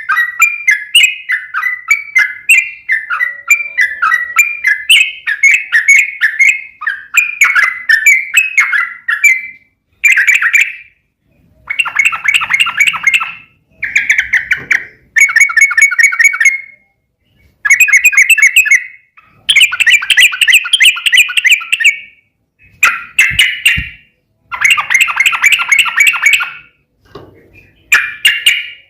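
Yellow-vented bulbul (trucukan) singing its rapid, bubbling chatter. It runs unbroken for about ten seconds, then comes in a string of short chattering bursts of a second or two, with brief pauses between them.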